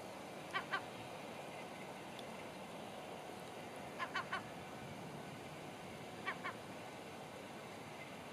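Short, pitched bird calls in quick pairs and threes, repeating every two seconds or so over a steady low background noise.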